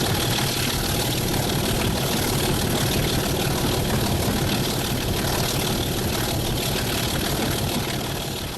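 Diesel locomotive engine running steadily, beginning to fade at the very end.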